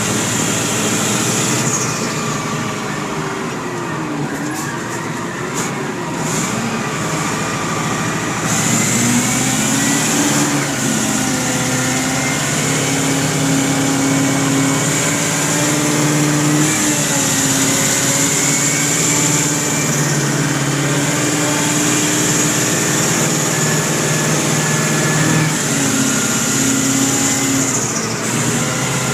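Caterpillar mining haul truck's diesel engine running and revving. Its pitch rises about nine seconds in and then shifts up and down, with a steady high hiss above it.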